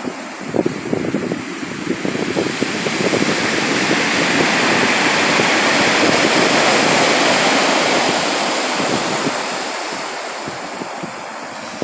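Sea waves breaking and washing on the shore: the surf swells up over the first few seconds, peaks around the middle and slowly falls away near the end.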